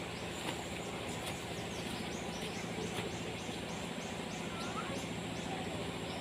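Outdoor ambience: a steady high insect drone and a run of short repeated chirps, about two a second, over a constant rustling noise.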